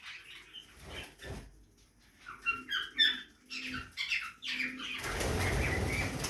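Budgerigars giving short chirping calls in bursts, then about a second of close wing flapping as a bird flutters up near the end.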